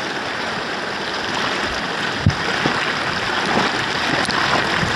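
Steady rushing of river water flowing past a bamboo raft, with a single sharp knock a little over two seconds in.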